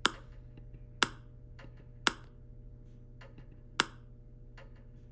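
Four sharp clicks, about a second apart at first and then a longer gap, with fainter ticks between them, over a steady low hum.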